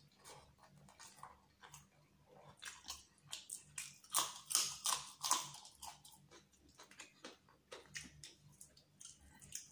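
Close-up mouth sounds of eating chicken biryani by hand: wet chewing with many sharp clicks. A run of loud crunchy bites about four seconds in comes from biting into a raw green chilli.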